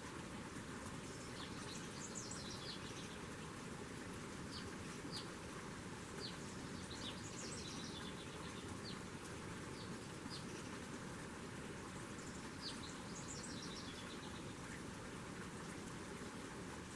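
Small songbirds chirping at a feeder: short rapid trilled phrases about every five seconds, with single quick downward chirps between them, over a steady background hiss.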